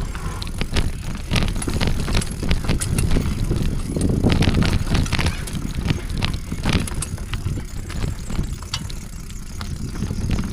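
Bicycle rattling and knocking as it is ridden over a rough mountain-bike trail, many irregular clicks and clunks over a steady low rumble.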